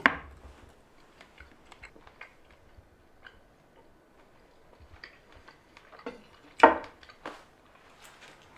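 A person eating a slice of smoked sausage: soft chewing with small, faint mouth clicks. There is a louder short sound about two-thirds of the way through.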